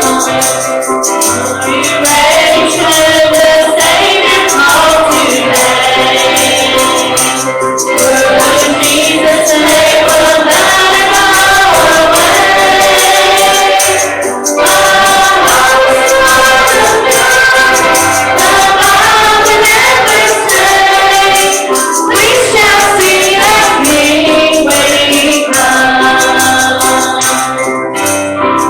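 A church congregation singing a gospel hymn together, with a tambourine shaken along throughout. The singing breaks off briefly between phrases about every seven seconds.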